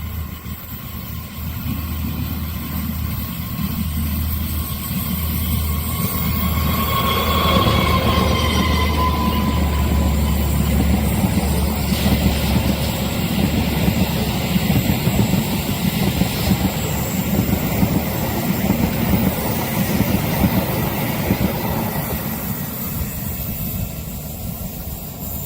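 A train runs past close by: a low engine hum, then the steady noise of its wheels on the rails as the cars go by, easing off near the end. A brief falling whine comes about a third of the way in.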